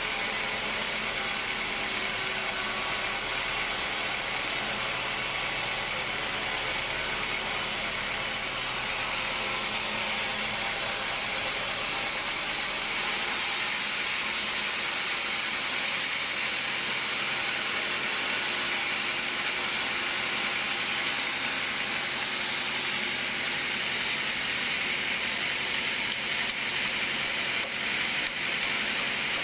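Sawmill machinery running with a steady, loud mechanical noise. About halfway through, its low rumble drops away while the rest carries on.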